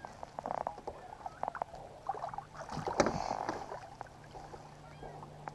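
Handling a freshly caught smallmouth bass aboard a plastic fishing kayak: scattered light knocks and clicks, and a brief louder splashy rush about three seconds in.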